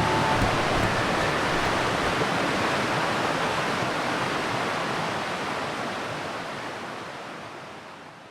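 A steady rushing noise, like running water or wind, fading out toward the end; the last notes of background music die away in the first second or two.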